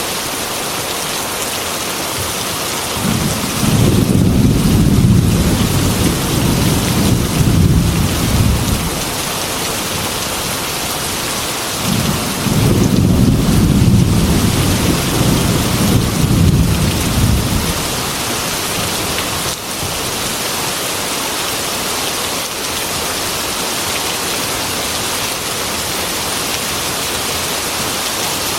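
Heavy rain falling steadily, with two long low rolls of thunder, one starting about three seconds in and one about twelve seconds in, each lasting about six seconds, and a third beginning at the very end.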